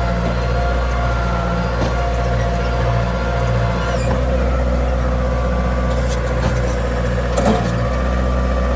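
Kubota M9000 tractor's four-cylinder diesel engine running steadily at working speed.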